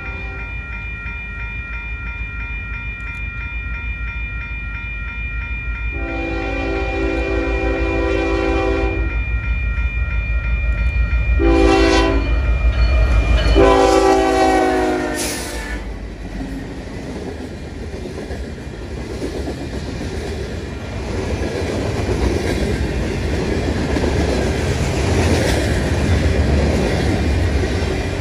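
A train approaching with a building low rumble and sounding its chime horn: a long blast, a short one, then a long one that drops in pitch as the locomotive passes. The train then rolls by, its wheels clattering over the rails.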